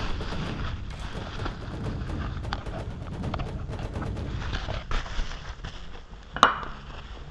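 Workshop knocking and clatter of tools and engine parts handled during a timing-belt and water-pump job. Irregular clicks and knocks sound over a low rumble, with one sharp knock about six and a half seconds in.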